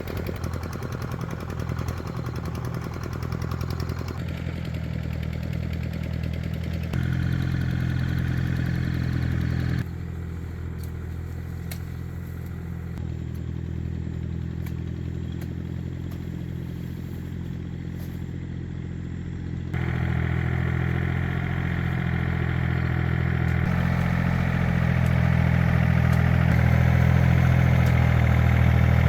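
Two-wheel walking tractor engine running steadily with a low, even hum. Its loudness jumps up or down abruptly a few times, at about 7, 10 and 20 seconds in.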